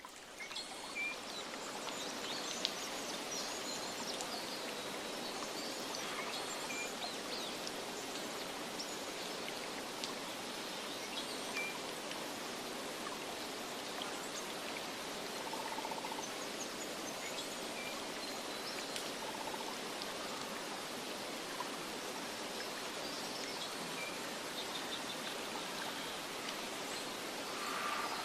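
Steady rushing of flowing water, like a stream, with occasional short, faint bird chirps over it. The sound fades in at the very start.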